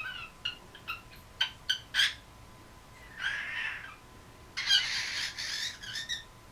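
Cockatiel calling: a quick series of short sharp chirps, then two longer harsh, raspy squawks, the second the loudest.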